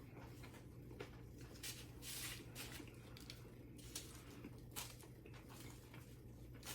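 Faint chewing of a sandwich close to the microphone: soft wet mouth clicks and squishes at irregular intervals, over a low steady hum.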